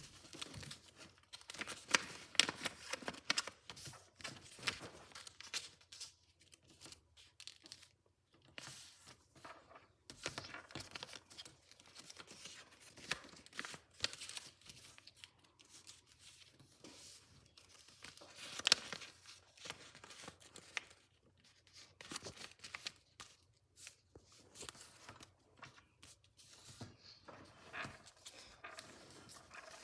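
A sheet of paper being folded and creased by hand: irregular crinkling and rustling with sharp crackles as folds are pressed flat.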